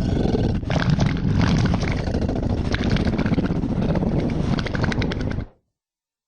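A big-cat growl sound effect, rough and rumbling, that cuts off abruptly about five and a half seconds in.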